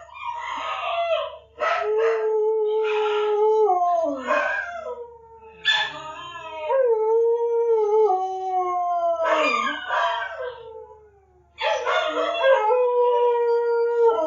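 A dog howling: three or four long, drawn-out howls, each held on a steady pitch and sliding down at the end, with short breaks between them.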